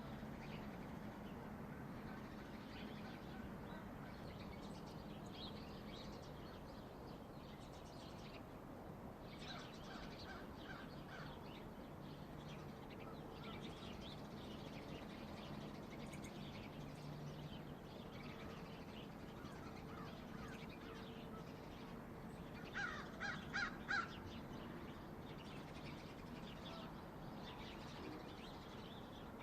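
Birds calling outdoors: faint scattered chirps, then four loud, harsh calls in quick succession about three-quarters of the way through, over a low steady hum.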